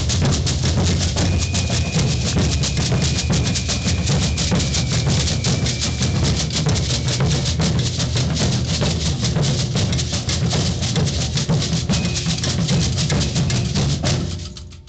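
Maracatu percussion group playing: dense, deep bass drumming with rapid clicking and shaking percussion over it, stopping near the end.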